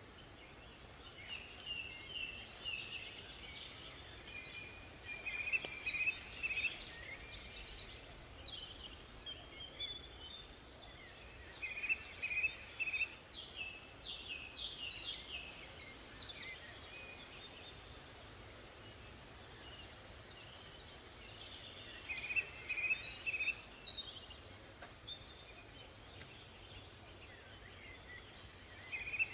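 Songbirds singing: short clusters of high chirps and trills that come in bursts every few seconds, with a longer lull in the middle, over a steady faint hiss.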